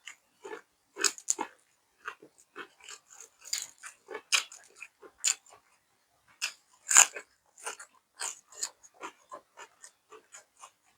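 A person chewing and biting food close to the microphone: irregular crunchy bites and wet mouth clicks, with the loudest crunch about seven seconds in.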